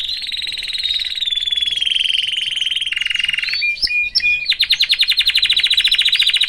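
Canary singing in long, very fast trills that step down in pitch. About four seconds in, a few separate short notes come, then another rapid, even trill.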